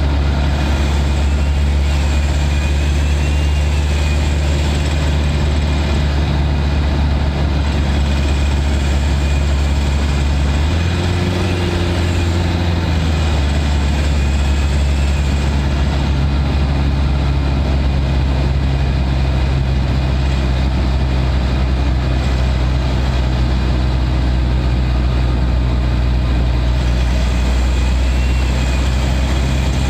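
Turbodiesel SUV engine heard close up from inside its engine bay, running steadily at highway cruising speed. The engine note rises briefly about a third of the way through, then settles back to the same steady drone.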